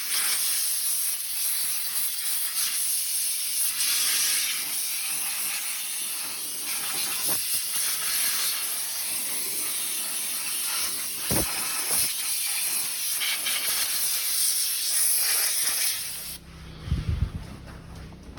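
A high-pressure spray hisses steadily while an engine bay is washed, then cuts off abruptly near the end. A low hum and a couple of knocks follow.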